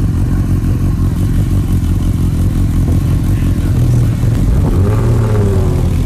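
Loud car engine running with a deep, steady exhaust rumble.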